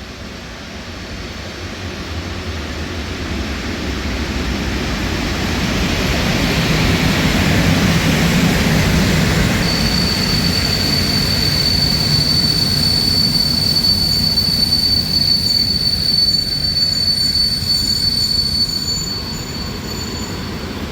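Locomotive-hauled intercity train coming along the platform, its running noise building up over several seconds, then holding and easing near the end. About halfway in, a steady high-pitched wheel squeal starts and runs until just before the end.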